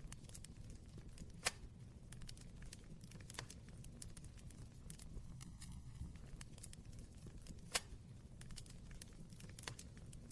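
Wood fire crackling: a steady scatter of small crackles over a low rumble, with two sharp louder pops, one about a second and a half in and one about three quarters of the way through.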